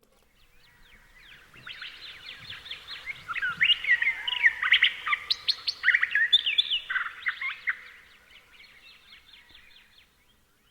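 Songbirds chirping and twittering, many short overlapping calls that fade in, swell in the middle and fade away near the end.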